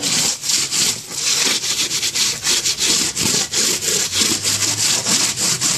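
Caked quail droppings being scraped off a droppings tray in a steady run of rapid, rasping strokes.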